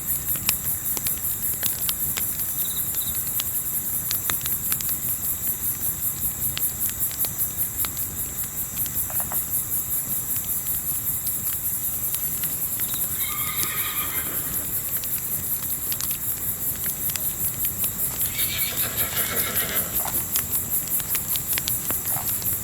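Crickets chirping in a steady pulsing rhythm over the crackle and pop of a campfire, with a horse whinnying twice: briefly about halfway through and again, longer, a few seconds later.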